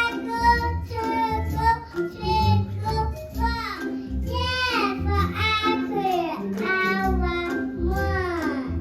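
A children's song: child singing voices over a steady instrumental backing.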